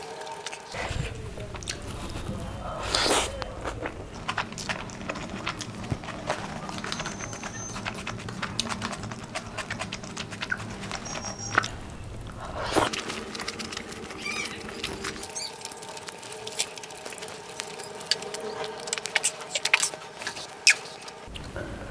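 Close-up chewing with many small sharp clicks, from a person eating chicken biryani by hand.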